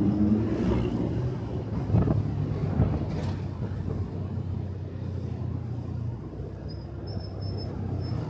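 Motorcycle engine easing off just after a rev, then running low and steady as the level slowly drops, with a couple of knocks about two and three seconds in. A few faint high-pitched chirps come near the end.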